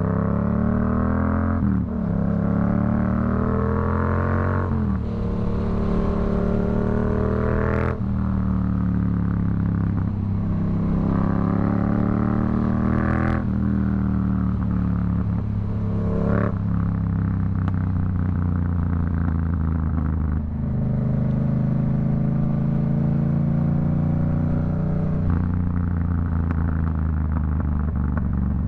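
Yamaha MT-07's 689 cc CP2 parallel-twin engine through a Black Widow aftermarket exhaust, accelerating through several upshifts. The pitch rises, then drops sharply about 2, 5, 8, 13 and 16 seconds in, with a short crack at several of the shifts. It then settles into steadier cruising revs.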